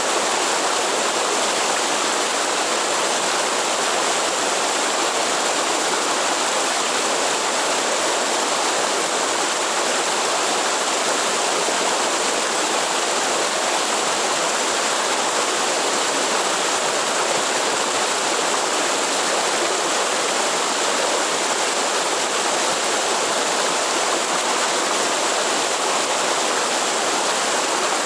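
Waterfall in the Atlantic Forest: a steady rush of falling and running water, even throughout.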